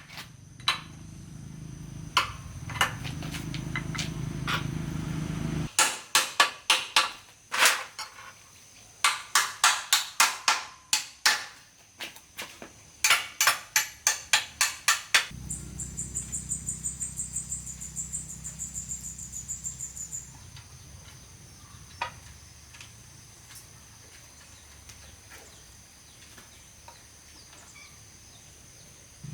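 Workshop sounds on a motorbike restoration bench: a small motor hums steadily, then stops about six seconds in, and a run of sharp metal knocks follows in quick groups. About fifteen seconds in, the motor hum returns with a thin high whine for a few seconds. After that it goes quieter, with a few scattered clicks.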